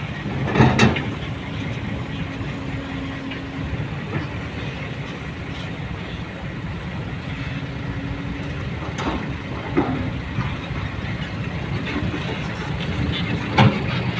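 A heavy vehicle's engine running steadily with a low rumble. A few sharp knocks stand out: one early, two about nine to ten seconds in, and one near the end.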